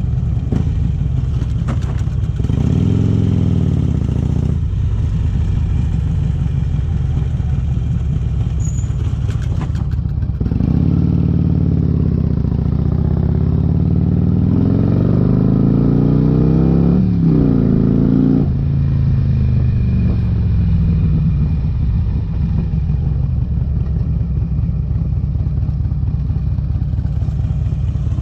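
Harley-Davidson Electra Glide V-twin through Vance & Hines exhaust pipes, running under way. It revs up briefly about three seconds in, then accelerates from about ten seconds with a gear change near seventeen seconds, and eases off after about eighteen seconds.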